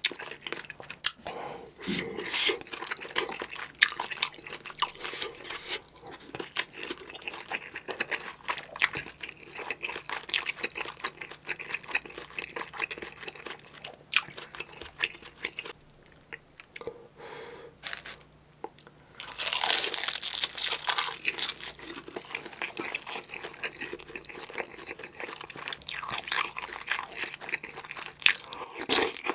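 Close-miked chewing of kimchi stew and rice: wet, crunchy mouth sounds with many small clicks and smacks. There is a louder, noisier stretch of mouth sound about two-thirds of the way through.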